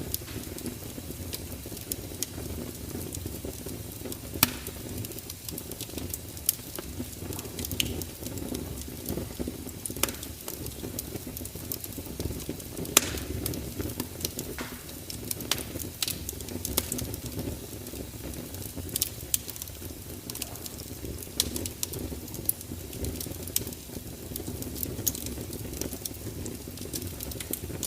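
Crackling fire: a steady low rush of burning with frequent sharp pops and snaps scattered irregularly. The loudest pops come about 4 s and 13 s in.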